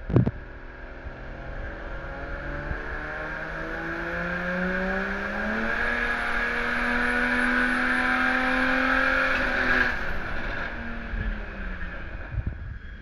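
Single-turbo N54 inline-six in a BMW 135i making a dyno pull on low boost: after a sharp knock at the start, the revs climb steadily for about six seconds, hold near the top, then drop away near the end as the throttle is lifted.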